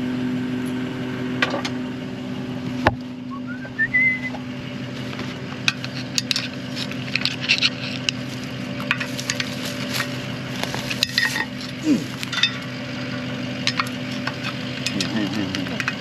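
Metal bolts and hardware clinking and tapping in short, irregular clicks as they are worked into place, over the steady hum of an idling engine.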